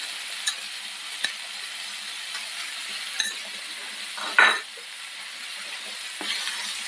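Potatoes, green beans and onions sizzling in coconut oil in a frying pan: a steady hiss with a few light clicks. About four seconds in there is a brief louder clatter, and near the end a wooden spatula starts stirring the vegetables.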